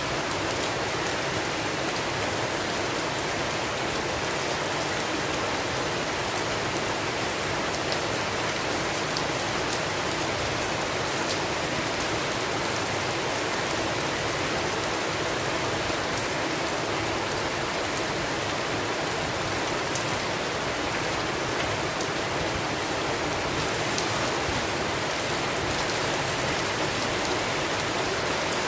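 Steady heavy rain: an even hiss of falling rain with scattered sharper drop ticks, holding at a constant level.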